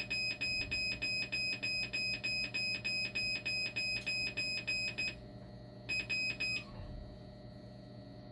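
Dialysis machine alarm beeping rapidly, about four short high beeps a second; it cuts off about five seconds in, sounds again in a short burst near six seconds, then stops, leaving a steady machine hum. The alarm signals the machine's pump fault.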